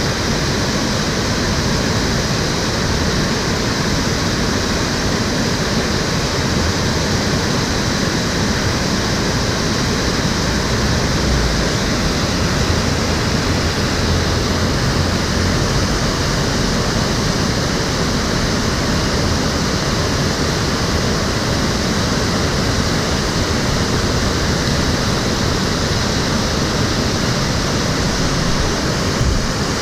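Stream water flowing, a steady even rush with no breaks or changes.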